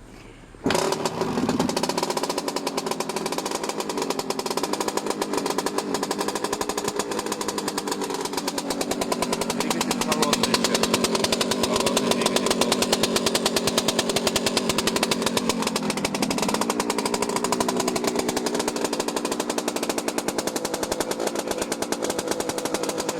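Suzuki RM125's two-stroke single-cylinder engine firing up on a cold start less than a second in, then running steadily with a rapid, buzzy exhaust beat and small rises and falls in pitch.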